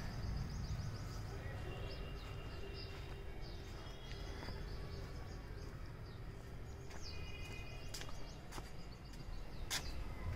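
Faint bird chirps and short calls over a steady low rumble of outdoor background noise, with a few sharp clicks near the end.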